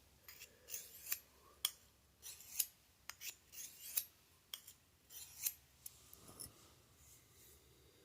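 Knife blade drawn over a small diamond sharpener in short scraping strokes, about two a second, some ending in a light click, stopping about six seconds in. The edge is being resharpened after going dull from use.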